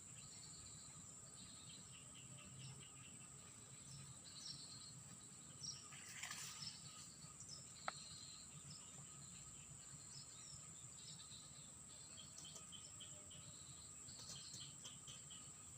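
Faint outdoor ambience: insects make a steady high-pitched drone while small birds chirp over it. A brief rustle comes about six seconds in, and a single sharp click about eight seconds in.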